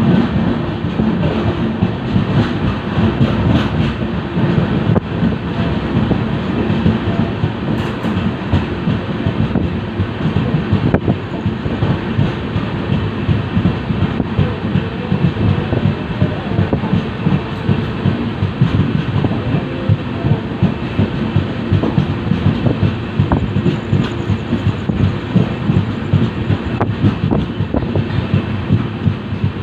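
Indian Railways LHB passenger coach running on the rails: a steady loud rumble of wheels on track with a fast, continuous clatter.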